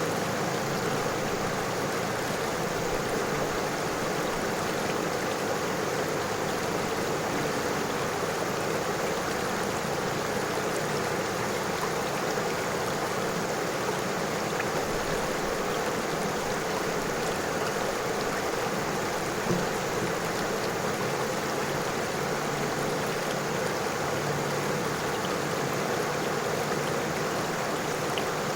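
River water flowing over stones, a steady rushing of running water.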